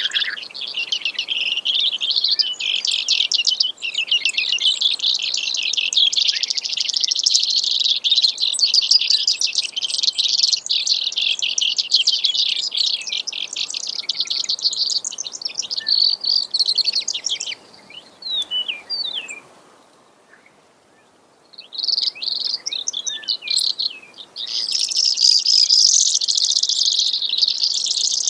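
Brewer's sparrow singing its long song of rapid trills that shift in speed and pitch. About two-thirds of the way through the song breaks into a few scattered notes and a short pause, then the trilling starts again.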